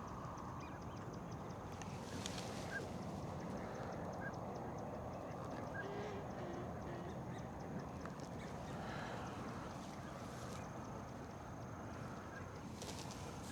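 Faint, steady outdoor background noise with a few short, distant bird calls scattered through it.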